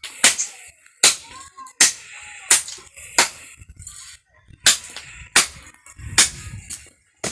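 Repeated sharp blows of a hand tool striking wood, about eight strokes roughly three-quarters of a second apart, with a short pause midway.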